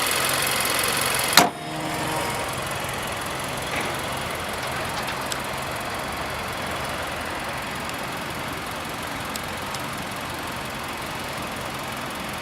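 Nissan Juke Nismo's 1.6-litre turbocharged inline-four idling steadily. A single loud slam comes about a second and a half in, after which the engine sounds quieter and more muffled.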